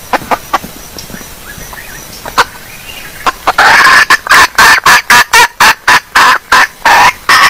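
Female junglefowl calling: a few short, sharp clucks, then from about halfway a loud, rapid run of cackling clucks, about three a second. This is the hen's call used as a lure to draw in wild junglefowl.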